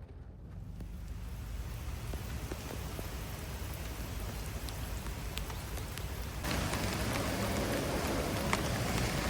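Rain falling steadily, with scattered single drops ticking, growing louder about six and a half seconds in.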